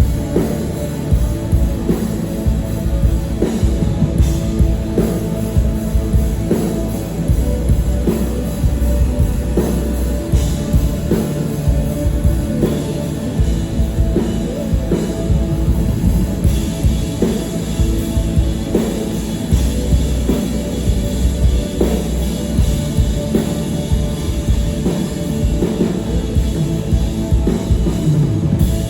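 Live rock band playing, the drum kit prominent with regular drum hits over bass and guitar.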